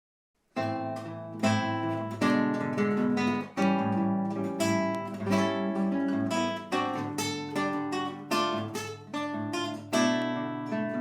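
Acoustic guitar playing the introduction to a samba song, a run of plucked chords and melody notes that begins about half a second in.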